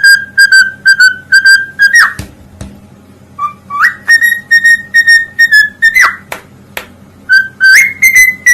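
A parrot whistling a tune in runs of short, clear repeated notes, broken by several quick swooping slides up and down in pitch.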